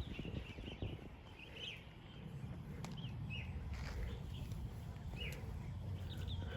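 Small birds chirping in short calls, one every second or so, over a steady low rumble.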